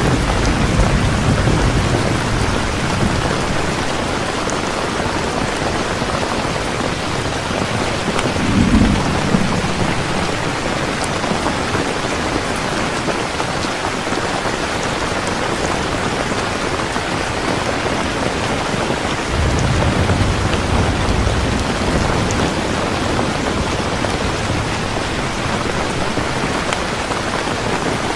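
Heavy rain falling steadily, with rolling thunder rumbling near the start, a sharper clap about nine seconds in, and another long rumble about two-thirds of the way through.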